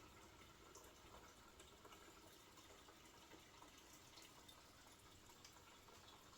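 Very faint trickle of gasoline being poured, with a few light ticks.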